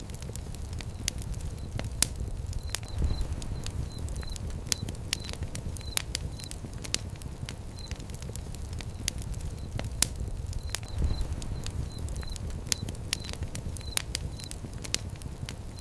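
Fire crackling, with frequent sharp irregular pops and snaps over a steady low rumble of flames.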